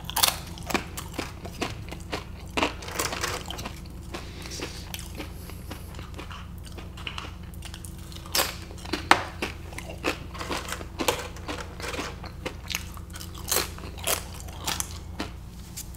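A person chewing food close to the microphone, with many short, crisp crunches and bites scattered throughout.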